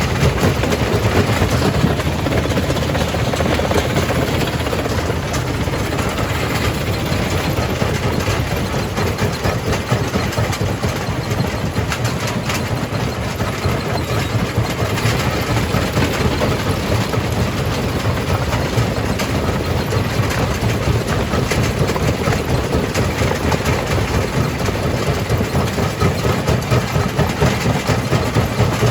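Jaw crusher running under load: a steady, loud heavy-machinery drone with frequent irregular knocks of rock being crushed.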